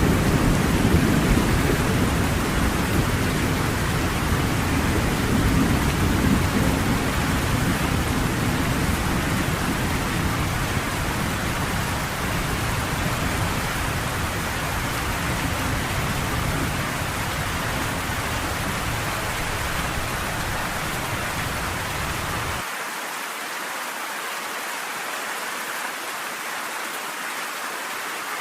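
Steady rain hissing, with a low rolling rumble of thunder that slowly dies away; about 23 seconds in the rumble cuts off suddenly, leaving only the rain.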